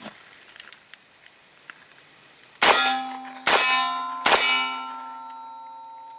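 Three sharp metallic clangs, a little under a second apart, each ringing on with a steady bell-like tone that fades slowly.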